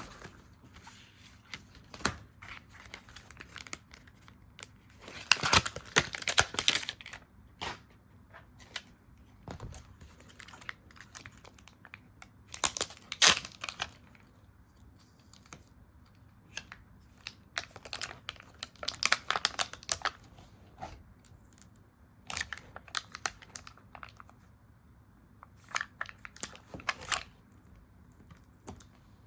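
Stickers being peeled from their backing sheets and paper being handled. Short spells of crinkling, tearing-like rustle come every few seconds, with small clicks and taps in between.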